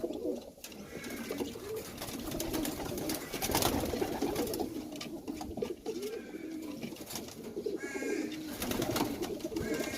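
Pigeons cooing, with many small clicks and knocks alongside.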